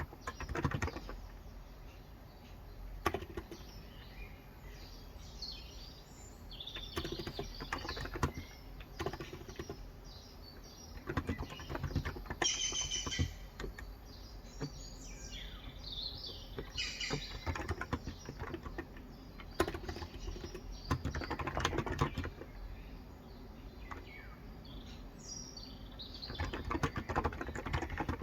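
Typing in bursts of rapid keystrokes on a COX Endeavor electro-capacitive (Topre-style) tenkeyless keyboard with 35 g switches, with short pauses between bursts. Birds chirp throughout.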